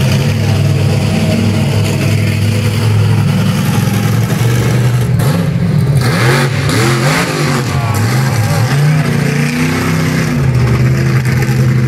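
Truck engine running steadily, then revved up and down several times in the middle before settling back to a steady run.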